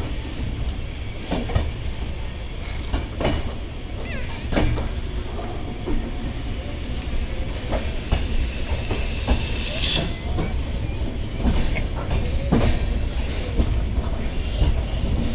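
Passenger train running on the rails: a steady low rumble with irregular clicks and knocks from the wheels passing over rail joints.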